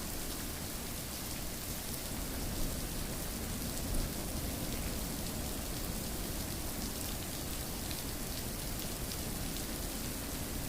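Steady rain falling, an even hiss with scattered drop ticks on top.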